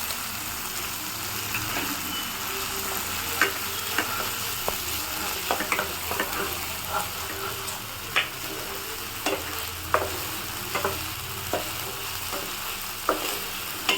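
Sliced onions with ginger-garlic paste frying in oil and ghee in a kadhai, a steady sizzle, stirred with irregular sharp ticks and scrapes against the pan.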